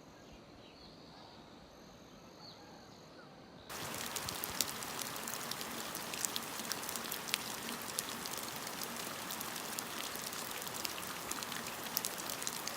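Rain falling steadily, with many sharp drop ticks on a hard surface close by. It starts abruptly about four seconds in, after a quieter stretch with a few faint high chirps.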